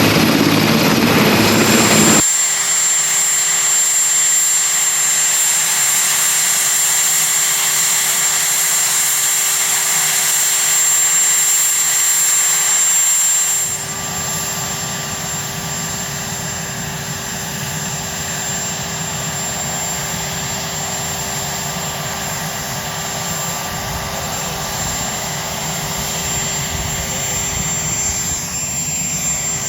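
Helicopter turbine engines running with a steady high whine. The sound changes abruptly about two seconds in, and again about halfway through, when a lower rumble joins it.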